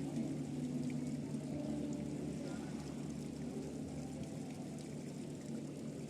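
Large passenger ship's engines running with a steady low hum, mixed with the rush of churned water as the ship manoeuvres to berth.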